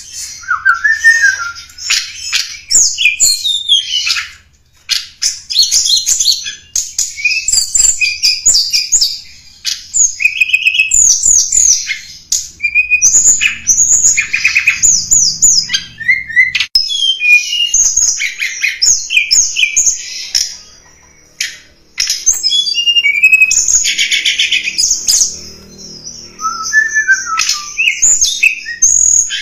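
Tledekan gunung song, a lure recording for drawing in wild birds: a fast, varied string of high chirps and short trills, nearly unbroken, with two brief pauses.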